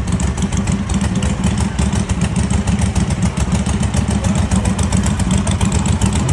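1939 Harley-Davidson V-twin engine running steadily at idle after being kickstarted, with a fast, even beat of firing pulses.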